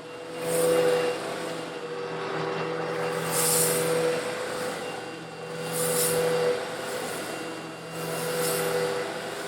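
Old Eureka vacuum cleaner running steadily, its motor humming as it sucks up coarse stone granules. About every two and a half seconds a swell of gritty rattling rises as the nozzle passes over the grit and the stones shoot up the hose.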